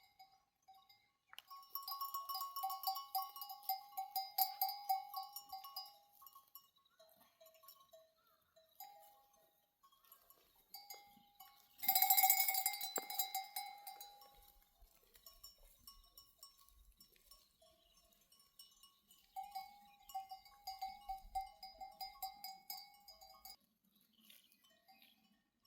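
Metal neck bells on a grazing flock clanking in quick, uneven runs as the animals move. The clanking comes in three spells a few seconds long, the loudest near the middle, with scattered single clinks between.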